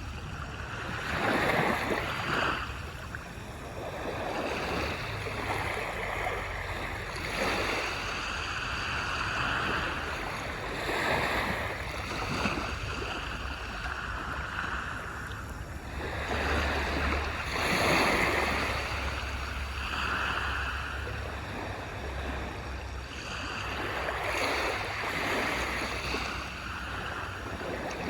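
Sea waves breaking and washing up a beach, one surge after another every few seconds over a low steady rumble.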